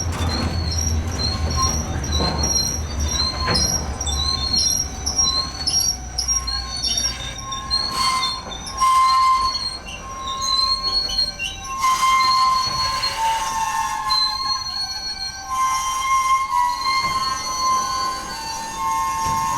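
Freight cars of a CN manifest train rolling past with their wheels squealing. Short, high squeals repeat through the first half, then give way to longer, steadier squealing tones from about the middle on. A low rumble fades out in the first few seconds.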